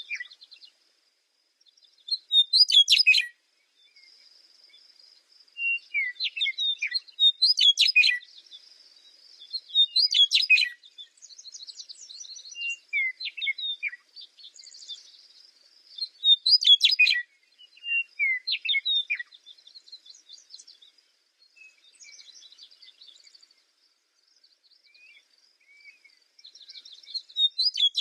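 A songbird singing repeated short phrases of quick high chirps, slurred whistles and buzzy trills, with pauses of a second or more between phrases.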